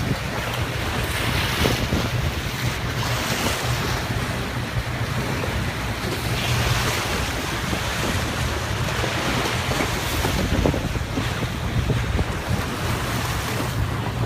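Wind buffeting the microphone and sea water rushing and washing past a small boat under way, over a steady low engine hum.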